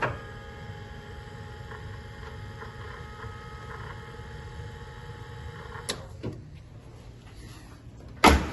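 Small electric pump humming steadily, with a couple of light knocks about six seconds in and a loud clunk near the end.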